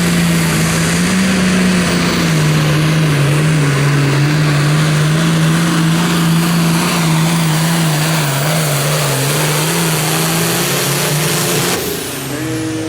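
Super Farm pulling tractor's turbocharged diesel engine running flat out under load on a pull, its pitch sagging slowly as the pass goes on. About twelve seconds in the engine lets off and the sound drops sharply.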